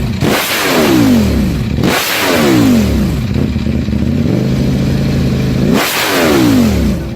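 Superbike engine blipped hard three times through its exhaust, each rev jumping up and falling back, settling to a steady idle between the second and third.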